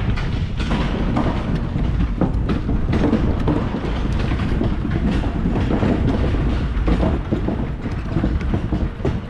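Bicycle rolling along a trail: steady tyre rumble with constant small rattles and clicks.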